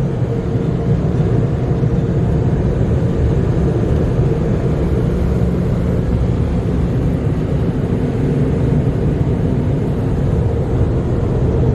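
MacNeil Tech 21 car wash air dryers blowing steadily on the car, heard from inside the car: a loud, even rush of air with a low hum and a faint steady whine.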